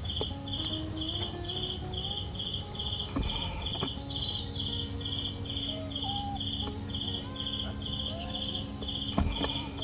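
Insects chirping: a pulsed chirp repeating about two or three times a second over a steady high-pitched buzz, with a sharp knock near the end.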